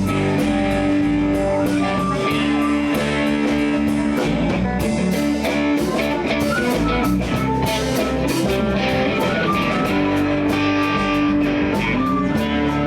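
Live blues-rock band playing an instrumental passage: electric guitar over bass and a steady drum-kit beat.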